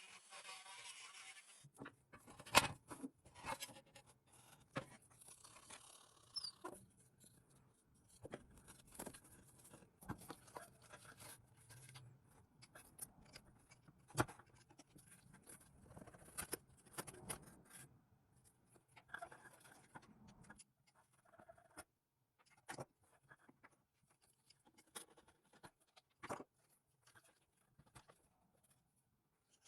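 Scattered light clicks, taps and scraping as small hard toy parts are handled and fitted. A steady hiss runs for the first second or two and cuts off suddenly.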